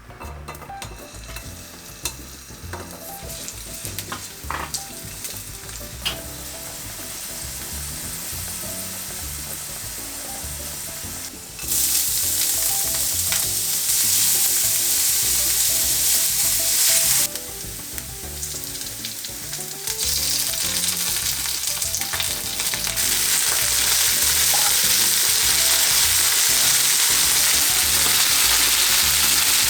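Food sizzling in hot oil in a frying pan as it is stirred, with a few light clicks of utensil on pan early on. The sizzle jumps much louder about twelve seconds in, drops back for a few seconds, then returns loud and stays that way.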